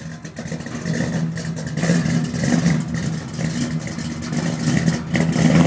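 Pickup truck engine with a lopey aftermarket cam, revved in bursts and dropping back to its choppy idle.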